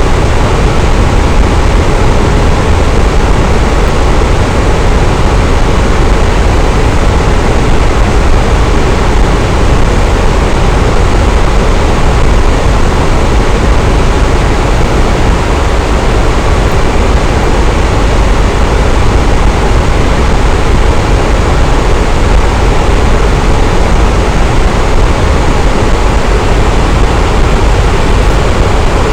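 Fan running at a steady speed: a constant rush of moving air, heaviest in the low end.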